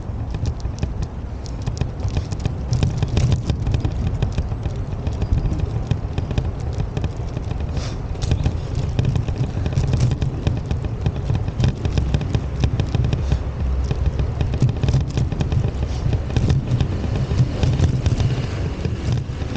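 Wind buffeting the microphone as a loud, uneven low rumble, with many short crackling clicks scattered through it.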